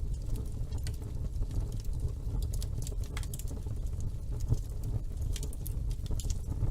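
Wood fire burning in a fireplace with a steady low rumble and irregular crackles and pops throughout.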